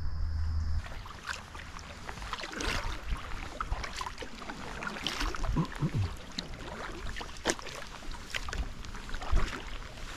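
Kayak paddle dipping and pulling through river water, with irregular small splashes and drips.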